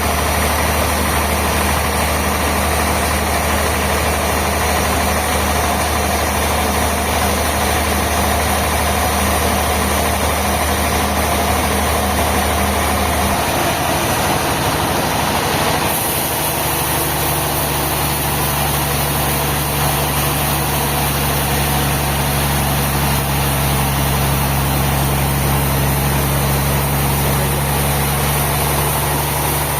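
Sawmill machinery running steadily with a low engine-like hum. The hum shifts to a different pitch about halfway through.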